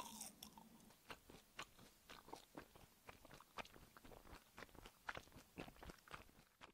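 Close-miked chewing of fried garaetteok (Korean rice cake) glazed in sweet soy syrup: a faint run of irregular crunchy bites and chews, about three or four a second, with a stronger bite at the start.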